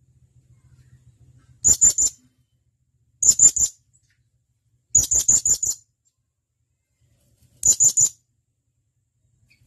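Blue-crowned hanging parrot (serindit) giving sharp, high-pitched calls in four short bursts of three to five rapid notes, each burst a second or two apart.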